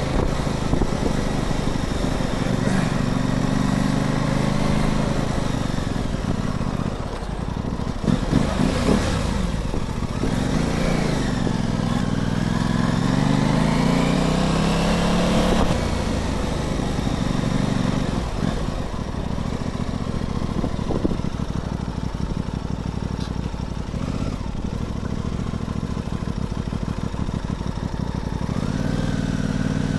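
Aprilia Tuono 660's parallel-twin engine running under way on a test ride, revs dropping about ten seconds in and climbing again by about sixteen seconds. Throttle response is restored to sharp after a fix for poor response and lag.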